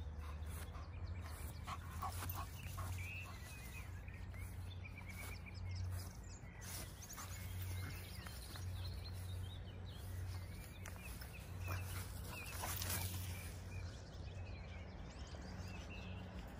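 Sounds of a dog close by, over a low steady rumble, with scattered clicks.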